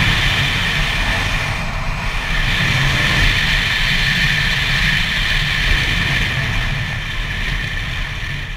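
The two-stroke 125 cc engine of a Gas Gas EC SMR 125 supermoto running under way, heard from the rider's helmet. It dips briefly about two seconds in, then fades over the last couple of seconds as the bike eases off.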